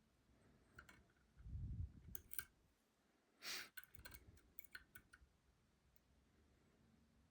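Faint, scattered clicks and light scrapes of a lock pick working the pins of a Robur 2391 lock cylinder, with a few dull handling thumps and one brief, louder burst of noise about halfway through.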